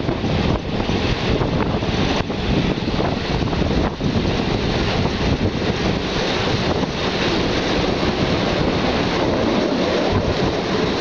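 Passenger train running at speed, heard from an open window: a loud, steady rush of wind over the microphone mixed with wheel and rail noise, with a couple of faint knocks from the wheels about two and four seconds in.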